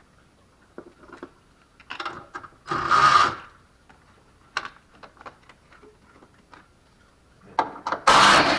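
A ratchet wrench clicking in two quick bursts, about two seconds in and again near the end, while the car battery is being removed, with scattered small clicks and taps of metal tools between.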